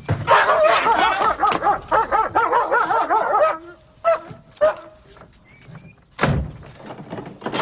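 A dog barking rapidly and repeatedly for about three and a half seconds, then two more barks, followed by a heavy thump about six seconds in.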